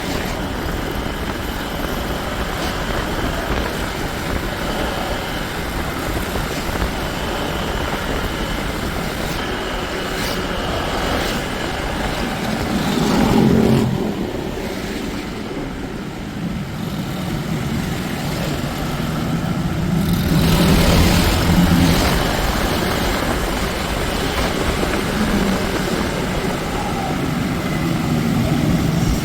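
Motor vehicle engine running on the road, with steady road and wind noise. It swells louder twice, about halfway through and again a little later.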